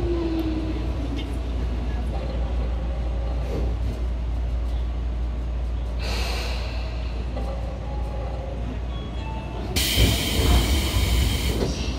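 Tobu 9000 series electric train heard from inside the car, running with a steady low rumble. A falling motor tone dies away at the start. About ten seconds in a sudden hiss starts and lasts roughly two seconds.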